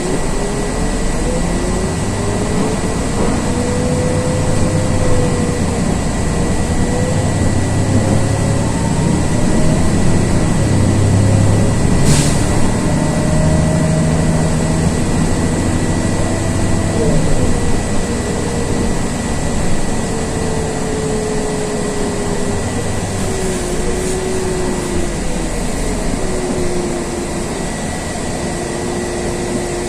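Cabin noise of a LiAZ 6213.22 articulated city bus under way: steady drivetrain noise with a whine that rises and falls in pitch as the bus speeds up and slows down. A thin, steady high tone runs underneath, and there is a single sharp click about twelve seconds in.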